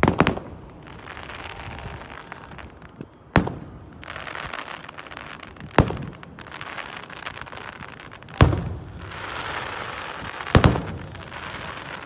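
Aerial fireworks shells bursting: five sharp bangs a few seconds apart, the first and last coming as quick doubles and the one about two-thirds through the loudest, with a hiss between them.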